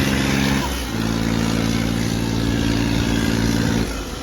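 Tractor diesel engine running hard at high revs with a steady note, dipping briefly under a second in and again near the end, as in a tractor tug-of-war pull.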